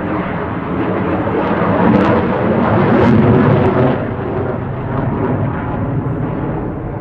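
A CF-18 Hornet fighter's twin General Electric F404 turbofan engines give a loud jet rumble. It swells to its peak about two to four seconds in, then eases off as the jet passes.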